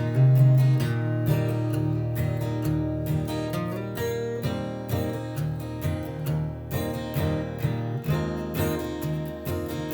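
Instrumental break of a song on acoustic guitar, strummed and picked notes with a steady pulse and no singing.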